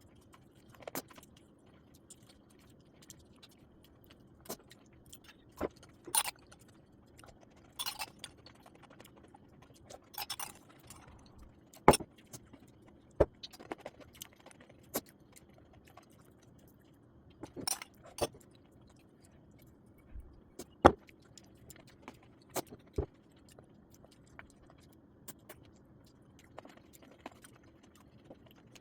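Kitchen utensils and dishes clinking and knocking now and then, with a few short scrapes, over a faint steady hum.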